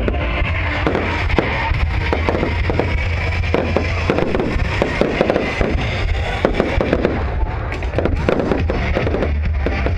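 Fireworks going off in rapid, irregular bangs and crackles, over loud music with heavy bass.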